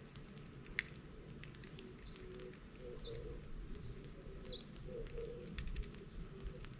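Bonfire of dried bamboo and brush burning: scattered small crackles and one sharper pop just under a second in, over a low steady rumble.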